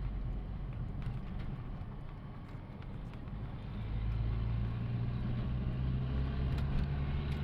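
Truck engine running close by, a low steady rumble that gets louder about four seconds in.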